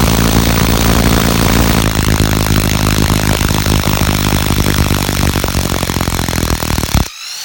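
Fein ASCD18-200W4 18 V cordless impact driver hammering rapidly in reverse, backing out a 5-inch wood screw. The impacting is loud and continuous, then stops about seven seconds in with a short rising whir as the bit spins free.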